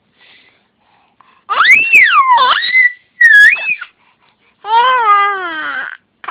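High-pitched vocal calls: a squeal sweeping up and down in pitch like a whistle, followed about a second later by a cry-like wail that slowly falls.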